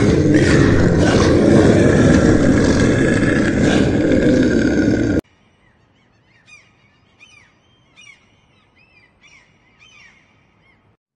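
A loud, rough animal roar runs for about five seconds and cuts off abruptly. Then come faint, short chirping bird calls, several in a row.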